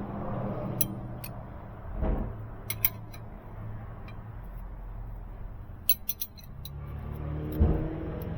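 Scattered sharp metallic clicks and clinks of hand tools working on a diesel engine's Jake brake, the loudest near the end, over a steady low hum.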